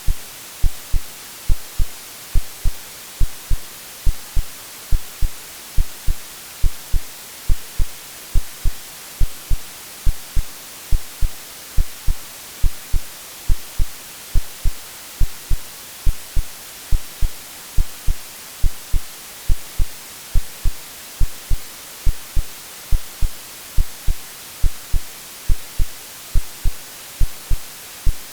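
AI-generated white noise hissing steadily, with a heartbeat sound beneath it: low double thumps, lub-dub, a little more than once a second, like the womb sounds used to settle a baby.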